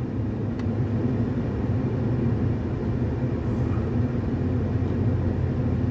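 Car driving at steady speed, heard from inside the cabin: a steady low engine and road rumble.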